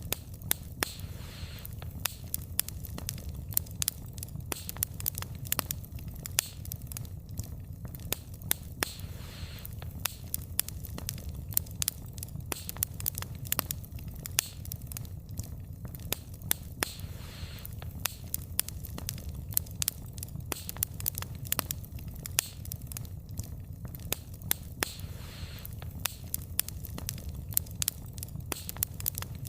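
Wood fire burning, with dense irregular crackles and pops of burning logs over a steady low rumble of the flames.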